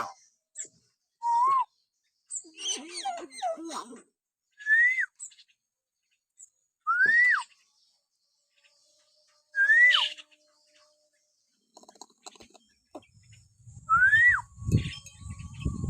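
Hill myna whistling: four clear whistles that rise and then drop sharply, a few seconds apart, with scratchier chattering calls in between early on. Near the end a low, rough rumbling noise comes in under the whistles.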